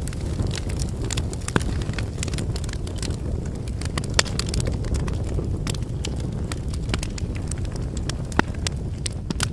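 Wood campfire burning: a steady low rush of flame under irregular sharp crackles and pops of the firewood, with a few louder pops scattered through.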